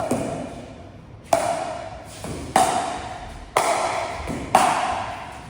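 Pickleball paddles hitting a ball back and forth in a steady rally: five sharp pops about a second apart, each ringing briefly. Fainter knocks, likely ball bounces, come between some of them.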